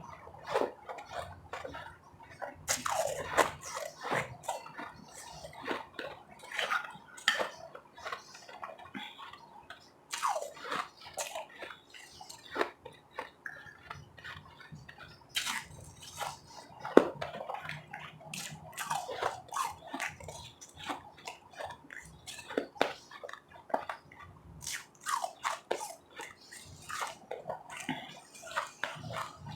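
Close-up ice eating: crunchy refrozen ice and soft powdery blended ice crunched and chewed, irregular clusters of crackling crunches throughout, with one sharp loud crunch about two thirds of the way in.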